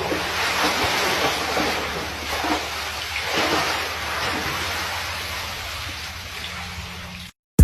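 Steady rushing noise with a low hum underneath and a few swells in loudness; it cuts off suddenly near the end.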